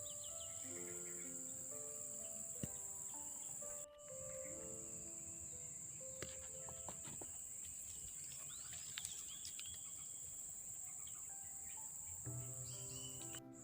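Steady high-pitched drone of crickets or similar insects, under background music playing a simple melody of held notes, with a few short bird chirps.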